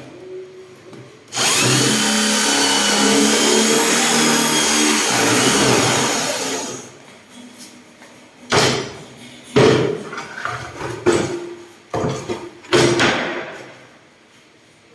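Power drill running at high speed, boring a hole into a wood cabinet panel for a concealed hinge, for about five seconds with a steady whine. It is followed by a few short, sharp knocks.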